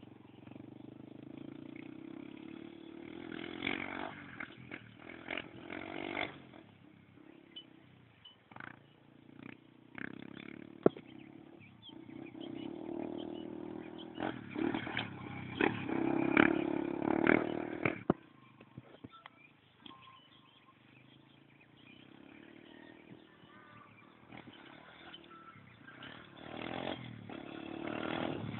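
Motocross motorcycle engine running and revving, swelling and fading in several surges, with scattered sharp knocks and clatter.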